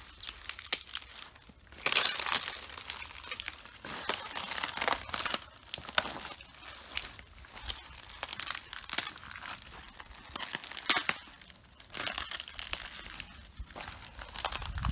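Footsteps treading on red cabbage leaves, crisp crunching and crackling as the leaves are crushed, a fresh surge with each step about every one to two seconds.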